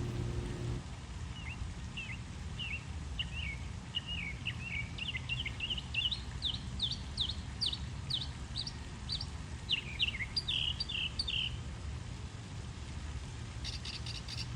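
Northern mockingbird singing a long string of short chirps and whistles, each kind of note repeated a few times before it switches to another. The run of changing phrases mimics the songs of many different birds. It breaks off briefly near the end, then starts a new repeated note.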